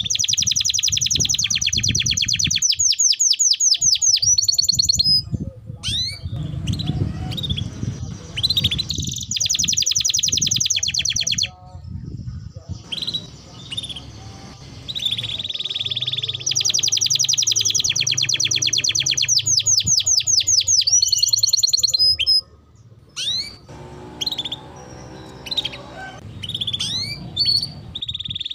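Domestic canary singing a long, vigorous song of fast rolling trills and quick repeated whistled notes, broken by a couple of brief pauses.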